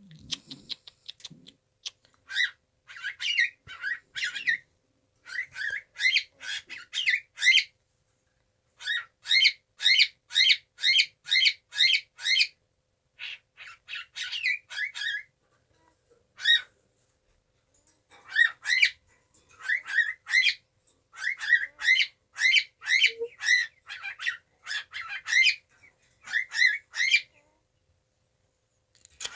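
Cockatiel calling: short, repeated chirping calls, about two or three a second, in runs of several with short pauses between runs.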